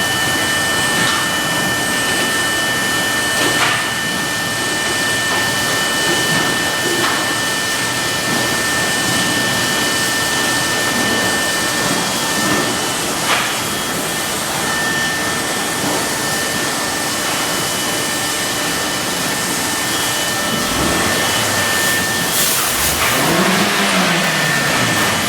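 Automatic car wash machinery running: a steady loud rushing noise with a constant high whine, a couple of brief knocks, and a low motor pitch that rises and falls near the end.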